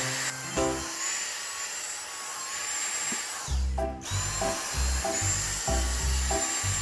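Vacuum cleaner running with a steady high motor whine, cutting out briefly about four seconds in. Background music with a steady bass beat comes in partway through.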